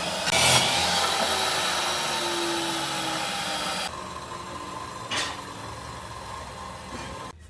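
A power tool running with a steady noisy whir, dropping to a quieter run about four seconds in, with a single knock a little after five seconds.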